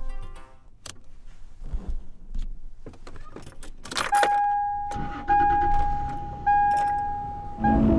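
Clicks and a jangle of keys, then a vehicle's warning chime dinging three times. Each ding is a clear tone that starts sharply and fades over about a second.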